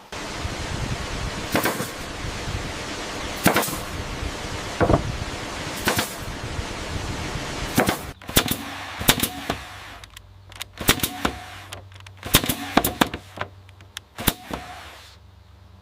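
A series of sharp, irregular strikes, about a dozen, coming closer together in the second half, over a steady rushing noise.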